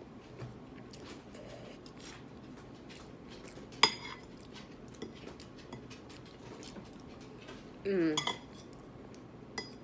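Cutlery tapping and scraping on a dish while eating, faint small clicks with one sharp ringing clink about four seconds in.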